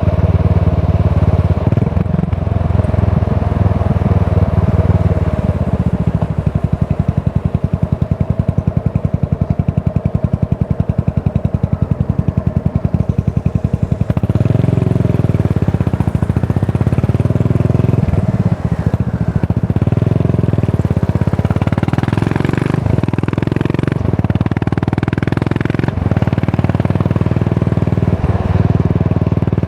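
Yamaha SR400's single-cylinder engine running through a Goods tapered cone slip-on muffler, first as a steady even thumping of single firing pulses, then from about halfway rising and falling in pitch with the throttle, broken by several brief dips.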